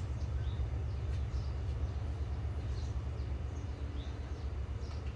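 Outdoor background: a steady low rumble with short, high bird chirps every second or so.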